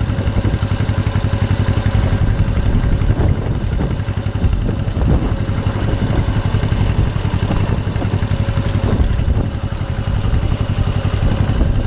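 Small farm tractor's engine running steadily with an even low beat, dipping briefly twice.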